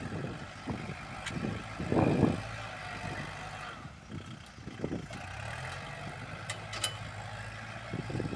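Kubota L47 tractor-loader's diesel engine running steadily while pushing soil, with a louder surge about two seconds in and a few sharp clicks near the end.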